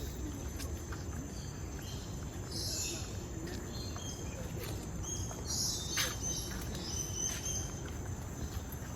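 Birds chirping and calling in short high-pitched bursts over a steady low background rumble, with a sharp click about six seconds in.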